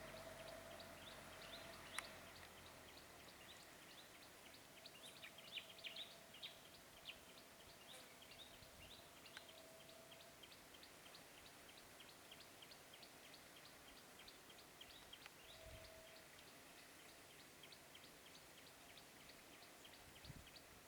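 Faint outdoor ambience with a steady run of short, high chirps, about three a second, from a small calling creature, and a single sharp click about two seconds in.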